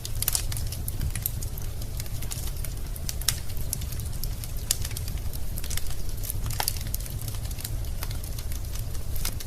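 Wood logs burning in a fireplace, crackling with irregular sharp pops over a steady low rumble of the fire.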